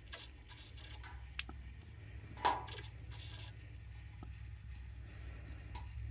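Small hard clicks and taps of a tool against the tray while leftover alcohol ink is picked up out of it, with one sharper clink about two and a half seconds in and a few brief swishes, over a steady low hum.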